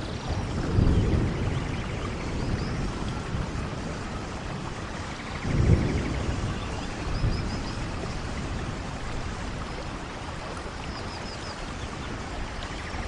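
Steady rain, with low rumbles of thunder about a second in and again near the middle.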